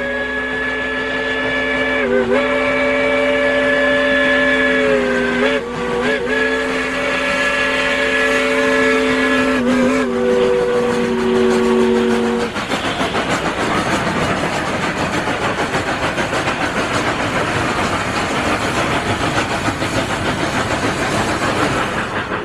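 Steam locomotive chime whistle blowing a long chord, briefly broken three times and dropping a little in pitch about ten seconds in. It stops about twelve seconds in, giving way to a steady hiss with rapid, even chuffs from the locomotives working.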